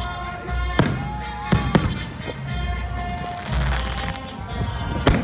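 Fireworks shells bursting with sharp bangs, four of them (about a second in, twice close together near the middle, and near the end), over music with a steady bass beat.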